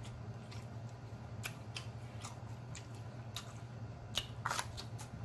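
Close-miked chewing: scattered wet mouth clicks and smacks, then a quick run of crisp crunches a little after four seconds in as a raw jalapeño pepper is bitten. A faint steady low hum sits underneath.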